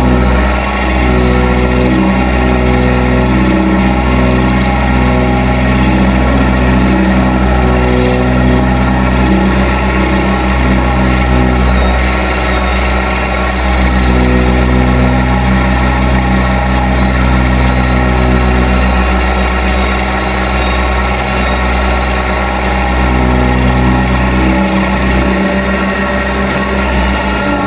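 Case 580B backhoe's engine running steadily while the machine works, with higher tones in its sound cutting in and out every few seconds as the load changes.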